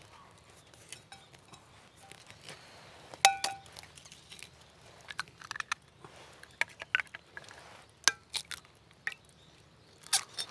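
Metal camp cookware and utensils being handled: scattered clinks and knocks, the loudest a ringing metallic clink about three seconds in.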